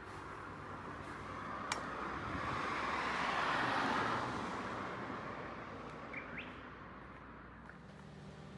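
A car passing by, its tyre and engine noise swelling to a peak about four seconds in and fading away, with a sharp click near the start and two short rising chirps, like a bird, a little after six seconds.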